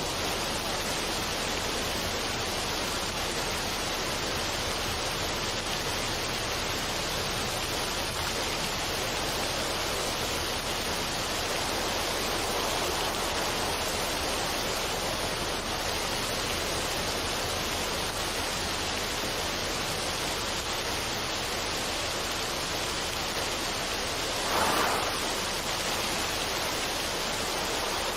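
Steady, even rushing water ambience with no music, with a brief louder swell about 25 seconds in.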